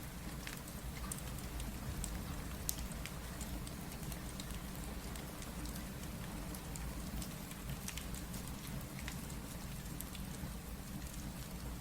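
Steady rain over a low rumble, with scattered sharp crackles and pops from a wood fire; one pop, a little under 3 seconds in, stands out above the rest.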